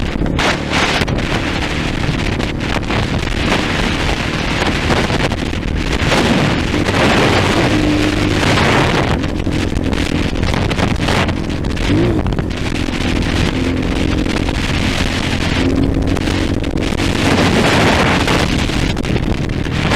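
A 230 cc trail motorcycle engine running under way, its revs rising and falling, with wind buffeting the microphone.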